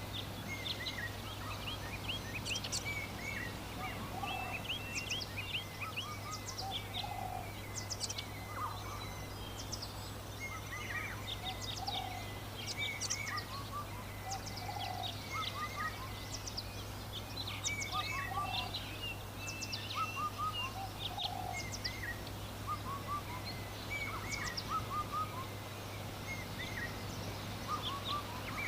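Countryside birdsong: many small birds chirping and twittering throughout, with a lower call repeating every couple of seconds, over a steady low hum.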